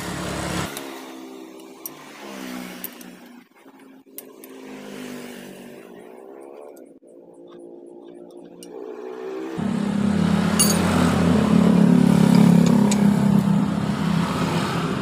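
A motor vehicle engine running nearby, its speed drifting up and down, then much louder for the last five seconds.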